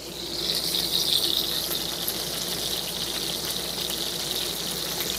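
Chicken tenders frying in hot oil in a 12-inch Lodge cast iron skillet: a steady sizzle that swells over the first second and then holds.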